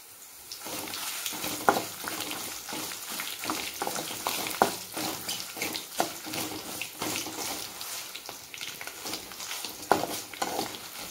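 Dried red chillies and spice seeds frying in hot sesame oil in a kadai: a steady sizzle and crackle that picks up about half a second in. A spatula stirs and scrapes the pan, with a few sharp clicks.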